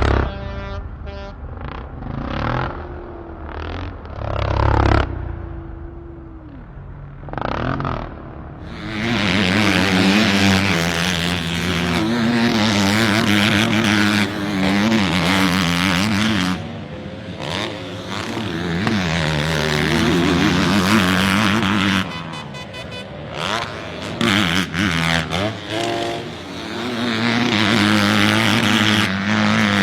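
Motocross bike engines revving up and down as they pass. A few brief passes come first, then from about nine seconds in the engines run loud and near-continuous, easing briefly a little after twenty seconds before picking up again.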